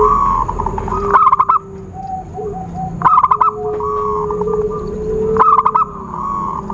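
Zebra doves (perkutut) cooing: a phrase of quick clipped notes about every two seconds, each trailing off into longer drawn-out coos, with a lower, steady coo overlapping underneath.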